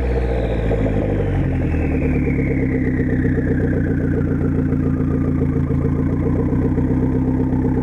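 1990 Saab 900 Turbo's turbocharged four-cylinder engine idling steadily through a straight-pipe exhaust, with a high whine that falls slowly in pitch.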